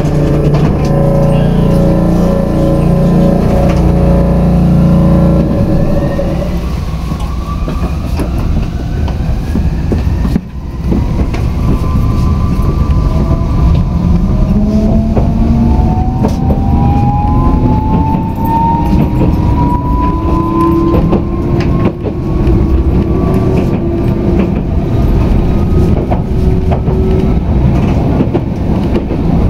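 Tokyu Setagaya Line light-rail car running on the track, with steady low rumble and wheel noise. From about twelve seconds in, the traction motors' whine rises steadily in pitch as the car picks up speed.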